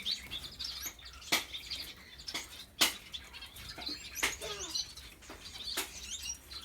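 Aviary finches chirping with many short, high calls, with several sharp clicks and wing flutters as the birds move about the cage.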